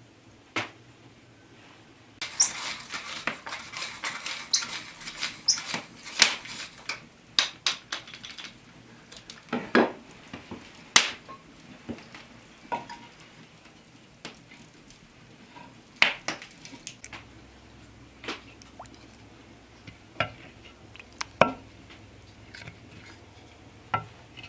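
Kitchen utensils and dishes clattering and scraping. There is a busy run of clinks and scrapes in the first several seconds, then scattered single knocks and clinks.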